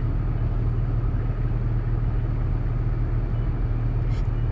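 Four-wheel-drive's engine idling steadily, heard from inside the cabin while the vehicle stands still. A short hiss comes near the end.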